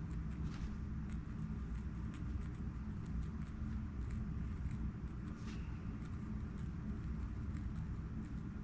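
Soft pen or highlighter strokes on a book page, faint scratches and light ticks scattered through, over a steady low background rumble.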